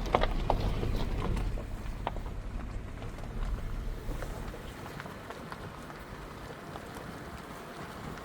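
Low rumble of wind buffeting the microphone, strongest in the first few seconds and then fading, with scattered light clicks and crunches.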